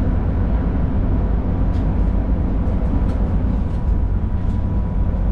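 Chinese bullet train (动车) running, heard as a steady low rumble with a faint steady hum over it and a few light clicks.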